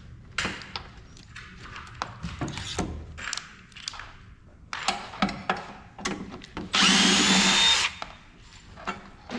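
Handheld power drill running in one short burst of about a second, about seven seconds in, its motor whine rising slightly. Before it come scattered clicks and scraping from screws and metal parts being handled.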